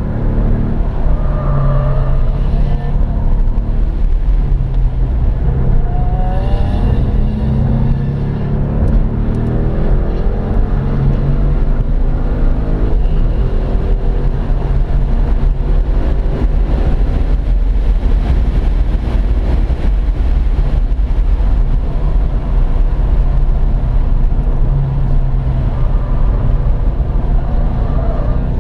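2015 Ford Mustang GT's 5.0-litre V8 under hard track driving, heard from inside the cabin: the engine note climbs and falls repeatedly through acceleration, gear changes and lifts, over a steady low road and wind rumble.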